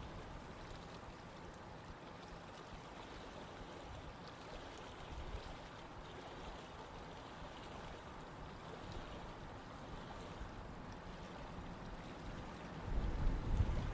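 Steady running water of a stream flowing. A louder low rumble comes in near the end.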